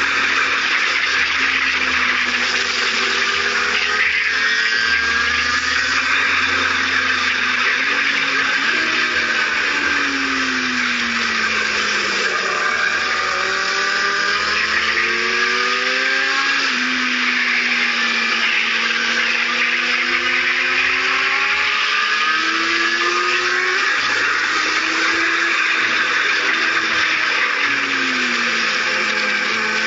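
Kawasaki Z750 inline-four engine on track, its pitch climbing and falling repeatedly as the rider accelerates, shifts and brakes. A heavy rush of wind noise over the camera runs throughout.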